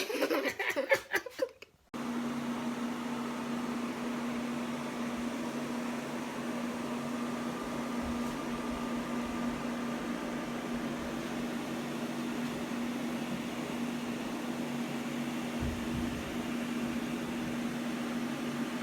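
Music with a voice for about two seconds, then it cuts to a steady mechanical hum with one constant low tone.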